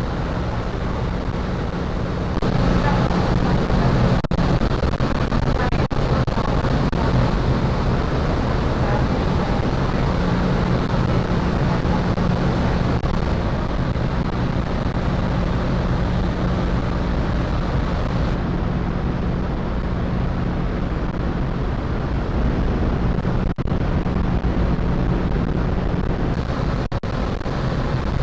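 Steady low drone of a car ferry's engines under a rushing of wind and water. The sound gets louder and brighter about two seconds in and duller again after about eighteen seconds.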